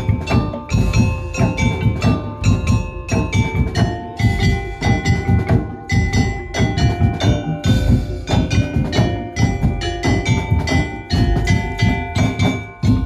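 Madurese tong-tong (ul daul) percussion ensemble playing a fast, dense beat of wooden slit drums and drums under ringing pitched notes that carry a melody.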